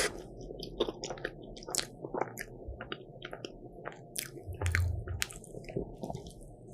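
Close-miked biting and chewing of a crisp croffle (caramelized croissant-waffle), a run of irregular sharp crunches, with a dull low thump a little past halfway.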